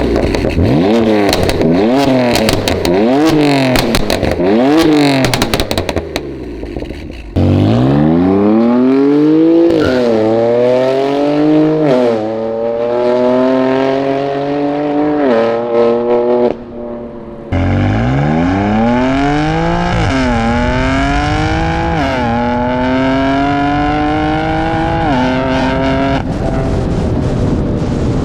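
BMW M3 F80's twin-turbo inline-six through a titanium exhaust with catless downpipe. First it revs up and down quickly, about once a second, with crackling; then, twice, it accelerates hard through the gears, the pitch climbing and dropping sharply at each upshift.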